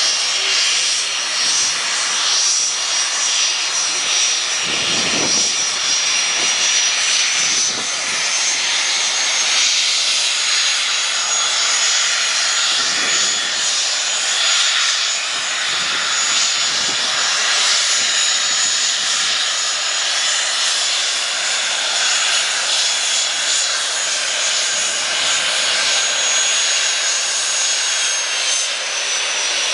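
Jet engine of a jet-powered show truck running steadily, a loud rushing noise with a high whine on top that rises slightly about eight seconds in and drops a little near the end.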